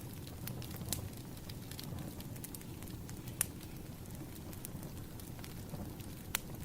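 Firewood burning: a steady low rumble with irregular sharp crackles and pops, two louder pops about halfway through and near the end.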